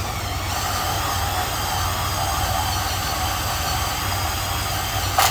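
A small electric motor running at a steady speed, a high whine with many overtones over a low hum, with a sharp knock about five seconds in.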